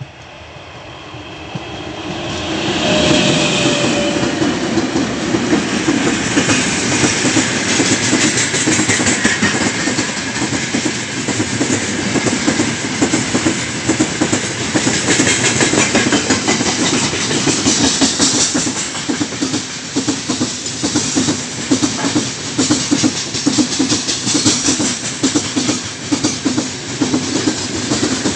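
A three-section 3ES5K Ermak electric freight locomotive approaches at speed and passes, growing loud over the first three seconds or so. Then a long, heavy freight train of open gondola wagons rolls by with a steady clickety-clack of wheels over the rail joints.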